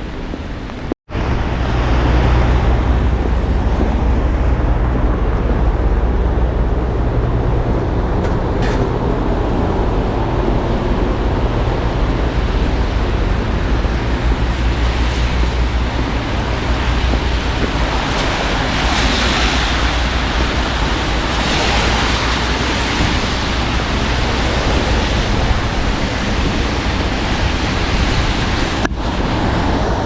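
Steady, loud outdoor noise: a rushing hiss over a deep, constant rumble, the sound of wind and passing traffic in wet weather.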